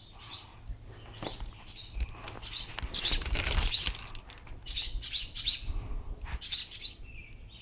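Small birds chirping repeatedly: short, high, rising chirps in quick runs, near the nest they are defending or leaving.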